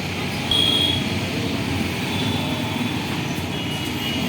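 Heavy diesel engines running steadily, with a thin high whine that comes and goes, loudest briefly about half a second in.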